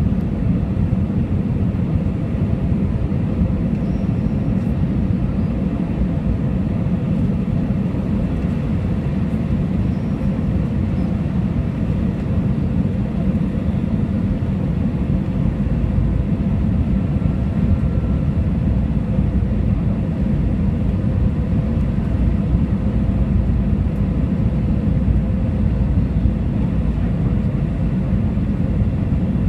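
Steady cabin noise inside an Airbus A320 in flight on its way in to land: a low rumble of jet engines and rushing air, with faint steady hum tones above it.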